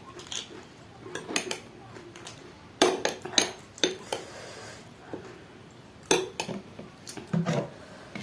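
Cutlery knocking and clinking against dishes: a string of sharp clinks, loudest about three seconds in and again about six seconds in.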